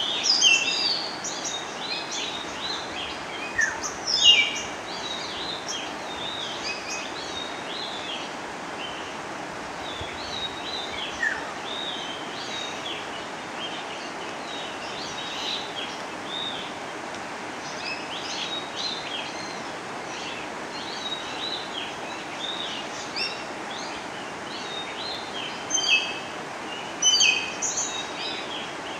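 Several birds calling in short chirps and whistles over a steady background hiss, with louder calls about four seconds in and near the end.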